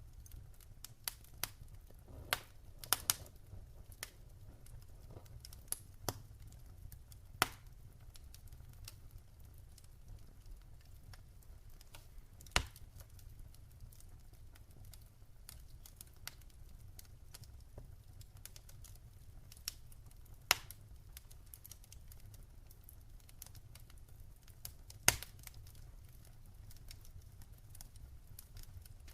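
Wood fire crackling in a fireplace: irregular small ticks and pops over a steady low hum, with a handful of louder sharp snaps spread through, the strongest about three, seven and a half, twelve and a half, twenty and a half and twenty-five seconds in.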